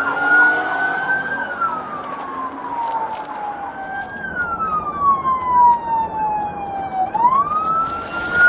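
Police car siren on the wail setting, slowly rising and falling in pitch, with a second, fainter siren joining about halfway through over steady road noise.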